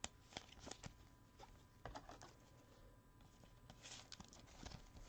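Faint scattered clicks and rustles of trading cards being handled, in small clusters about two seconds apart.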